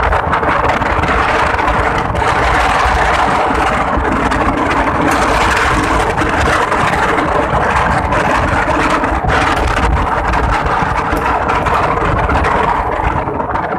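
Strong wind buffeting the microphone, a loud, unbroken rumble, over a steady engine hum.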